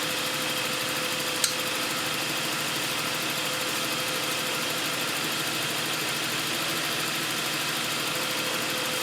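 Toyota 1G-FE inline-six engine idling steadily while its ignition timing is set to about 10 degrees with a timing light. A single short click sounds about one and a half seconds in.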